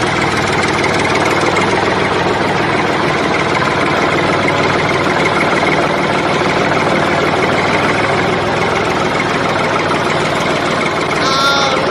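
An engine running steadily, a dense, even noise with no change in speed.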